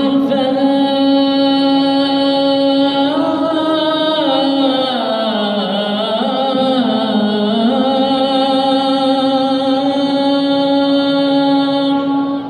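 A solo male voice chanting the adhan, the call to prayer, in one long unbroken melismatic phrase. It holds a steady note, then dips and ornaments the pitch in the middle before settling back on the held note. It stops near the end.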